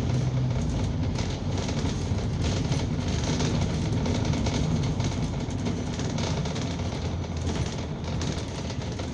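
Inside a moving bus: steady engine and road rumble with light rattling from the cabin.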